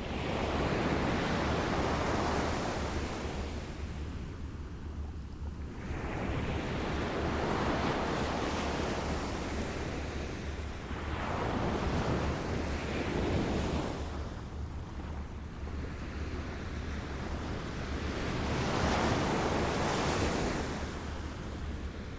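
Small waves lapping at a shore, the wash swelling and fading roughly every five to six seconds, about four times, over a steady low rumble.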